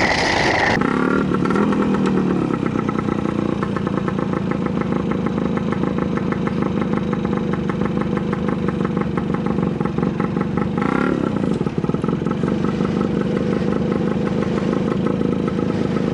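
Trials motorcycle engine running steadily, with the throttle briefly blipped about a second in and again near eleven seconds.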